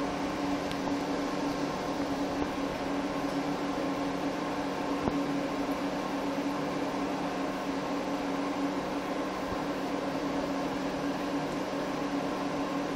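Steady machine hum with a low droning tone, like a running household appliance motor, with a few faint clicks.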